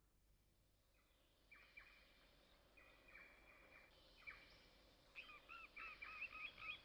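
Faint birdsong: short chirps repeated every second or so, then a quicker run of chirps near the end.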